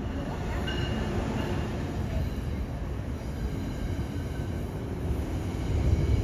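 Passenger train running through the station: a steady low rumble of wheels on rail, with faint high-pitched squeal tones in the first couple of seconds.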